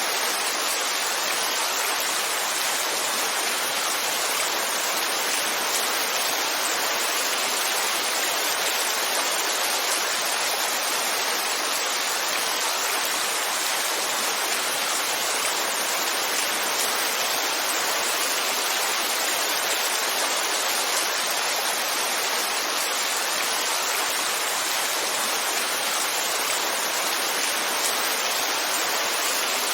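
Heavy rain falling as a steady, even hiss, dense enough that no single drops stand out.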